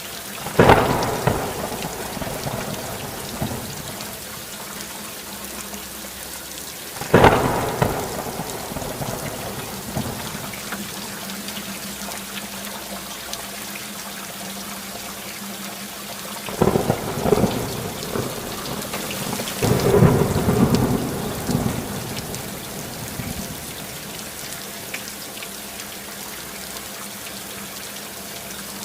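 Steady rain falling, with thunder breaking four times: sharp claps near the start, about seven seconds in and about sixteen seconds in, then a longer rolling rumble a few seconds later.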